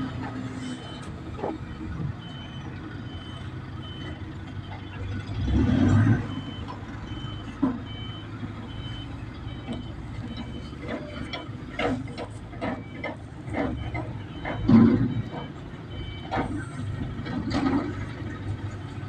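A vehicle's reversing alarm beeps steadily about once a second over a diesel engine running at work. Several sharp metal knocks and clanks come in the second half, and the engine surges louder twice.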